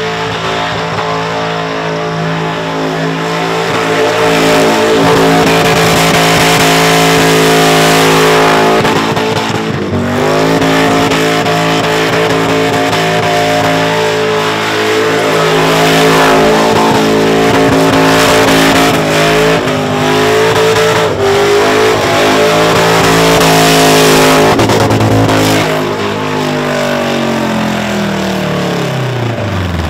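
Supercharged VH Commodore engine held at high revs through a burnout, with the hiss of spinning tyres. The revs dip and pick up again about ten seconds in, and fall away near the end.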